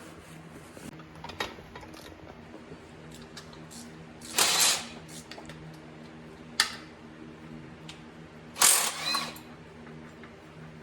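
Hand tools working on metal transmission parts: a few sharp clicks and two short, loud rasping bursts, one a little before halfway and one near the end, over a steady background hum.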